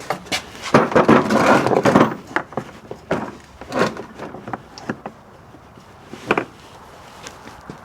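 Clattering knocks and scraping of something being wedged under a motorcycle's foot pegs to prop the bike up: a dense run of knocks about a second in, then scattered single knocks.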